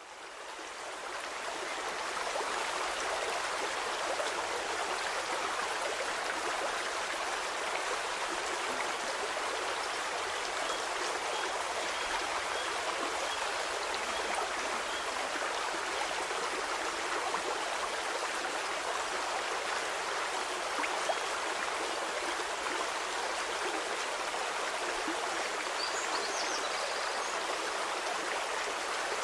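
Stream water flowing steadily over stones, fading in over the first couple of seconds. A few faint high chirps come in near the end.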